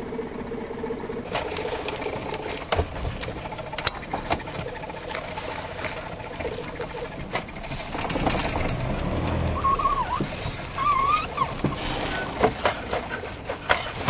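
Small car's engine running, with repeated clicks and clunks of its levers and controls being worked. A short wavering whine is heard about ten seconds in.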